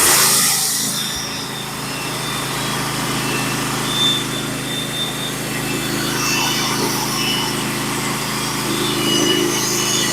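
Norwood HD36 portable band sawmill's small gas engine running steadily at speed as the band blade cuts a pitch pine log.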